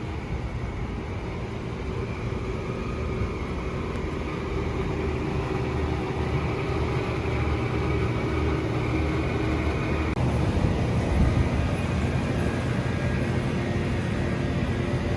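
Steady low rumble of a moving vehicle, with a little more hiss from about ten seconds in.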